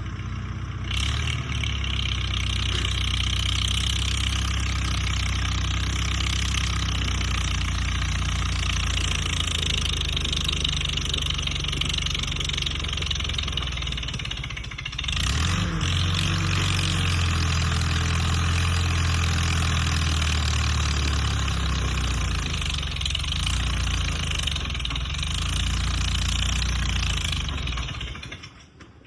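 A motor vehicle's engine running steadily. About halfway through it drops off briefly, then picks up again with a short rise in pitch, like a shift and acceleration.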